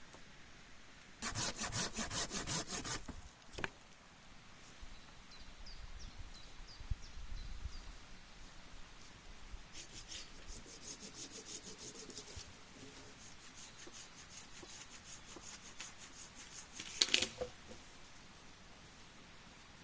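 Wood being cut with a hand saw in short bursts of quick back-and-forth strokes, with a single knock and a pause between bursts.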